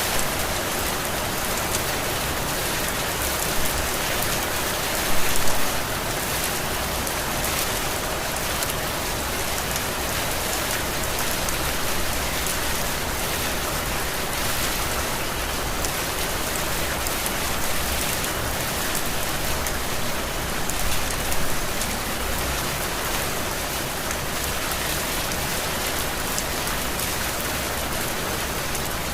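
Heavy rain falling steadily, a dense hiss of drops spattering on surfaces. It swells briefly about five seconds in and again a little after twenty seconds.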